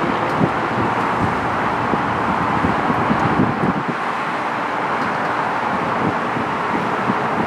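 Steady jet engine noise from an Emirates Airbus A380's four engines during takeoff, with wind buffeting the microphone in uneven low thumps.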